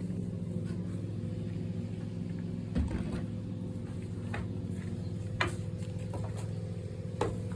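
A steady, even motor hum runs throughout, with a few light knocks and clicks scattered through it.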